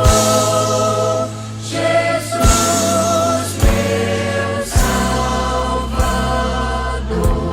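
Gospel music: a vocal group holding long chords together over a band, with bass and a drum hit about every second.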